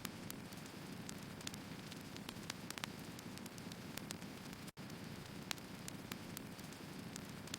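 Wood fire burning: a steady soft hiss with irregular sharp crackles and pops from the burning logs. The sound cuts out for an instant nearly five seconds in.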